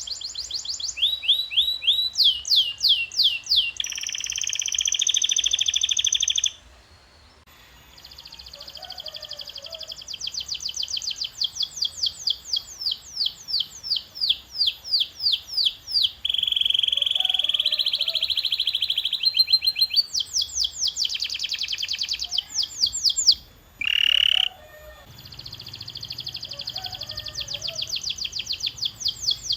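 Domestic canary singing: a long run of high trills, each a rapid series of repeated sweeping notes that changes speed and pitch from phrase to phrase, with brief pauses about seven and twenty-four seconds in.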